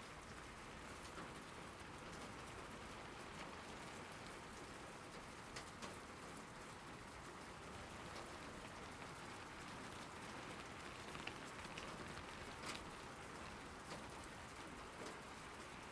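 Steady rain falling, with scattered sharper taps of individual drops.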